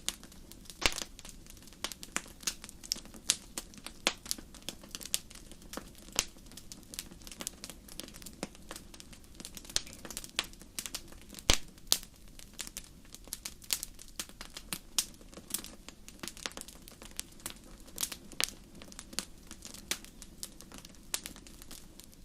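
Wood fire burning in a fireplace: irregular sharp crackles and pops over a soft steady rush of flame.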